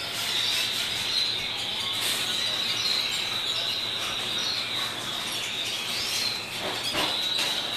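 Domestic canary singing: one long unbroken song built on a high, steady trill, with a short break and a few lower notes near the end.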